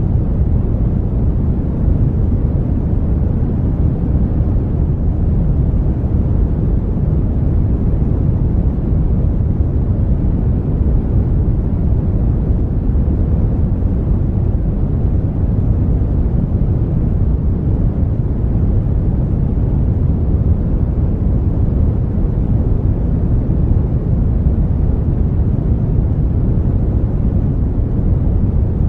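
Steady brown noise: a smooth, unchanging deep rushing hiss, strongest in the low end and rolling off toward the highs.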